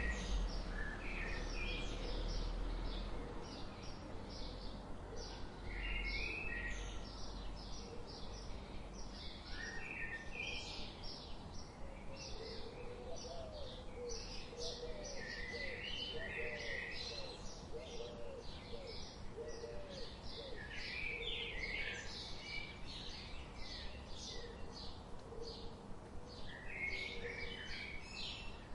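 Several birds chirping and singing, with many short high chirps throughout and a lower call repeated quickly in the middle stretch.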